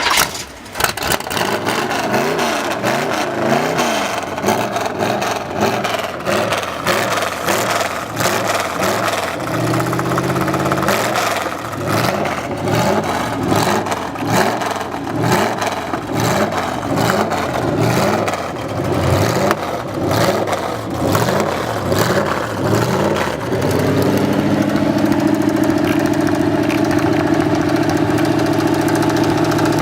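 Rat rod truck's engine running on the road, its pitch repeatedly climbing and dropping as it revs, then holding steady near the end, with rattles and knocks over it.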